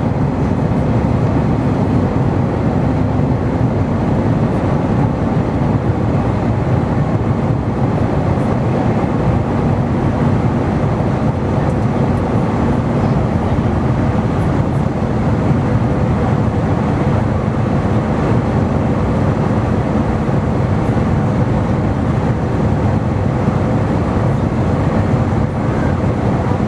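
Airbus A320 cabin noise in flight after takeoff: a steady, loud rush of engine and airflow noise with a faint steady hum underneath.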